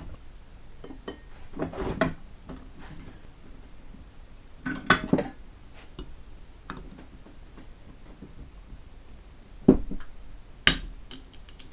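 Metal hand tools clinking and clanking as they are handled and set down. There are a few sharp metal knocks, the loudest about five seconds in and two more near the end.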